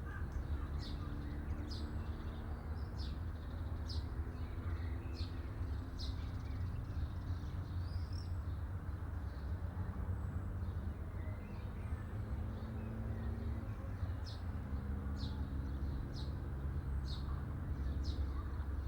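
A small bird chirping repeatedly, short high notes about once a second and coming faster in the second half, over a steady low rumble.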